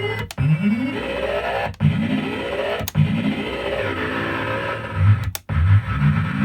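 Circuit-bent Millennium Falcon 'Sounds of the Force' electronic toy glitching: a stream of garbled, chattering sample fragments over a low hum, with rising pitch sweeps about once a second and several sudden dropouts.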